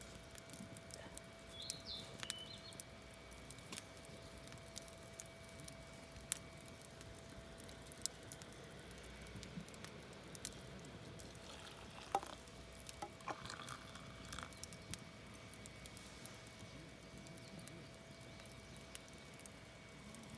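Campfire crackling: irregular sharp pops and snaps of burning wood, with a faint steady tone underneath.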